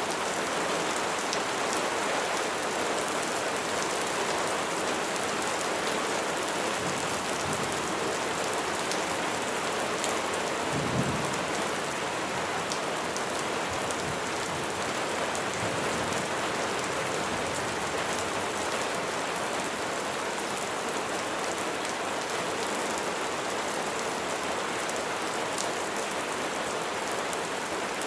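Steady rain falling on a surface, a continuous hiss with scattered individual drops ticking. A brief low thump about eleven seconds in.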